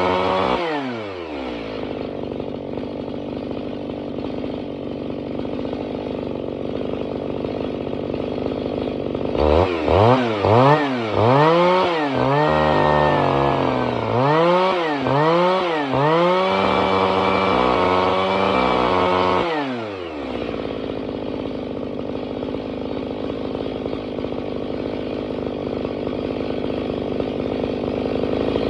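Kioritz CSG-673VC two-stroke engine cutter running: it falls from high revs to idle, idles, then is given several quick throttle blips and held at high revs for a few seconds before dropping back to a steady idle.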